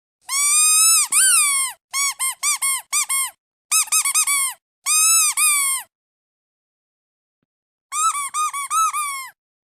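Squeaky duck toy squeezed over and over, giving high squeaks all at about the same pitch. First come a couple of long squeaks, then quick runs of short ones, then a longer squeak. After a pause of about two seconds, a last quick run sounds near the end.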